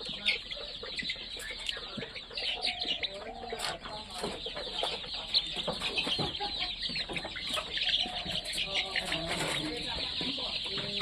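A flock of chickens clucking and calling, with many short, overlapping calls.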